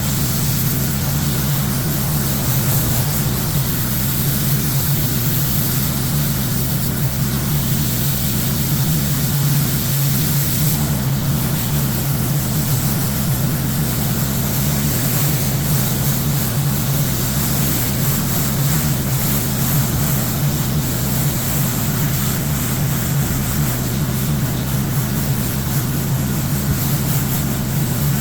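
Gas-engine pressure washer running steadily under load, with the hiss of high-pressure water spraying.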